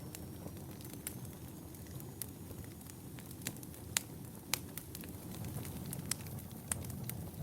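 Wood fire burning in a fireplace: a steady low rumble of flames with irregular sharp crackles and pops, the loudest about four seconds in and again half a second later.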